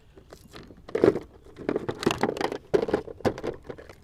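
Close handling noise as a small bass is unhooked: an irregular run of clicks, knocks and scraping rattles from the lure and the fish against hands and kayak, loudest about a second in and again near three seconds.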